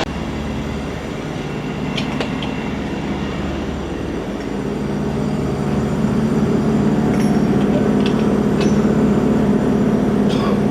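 Semi-truck diesel engine running steadily, its low rumble growing louder about halfway through, with a few light clicks.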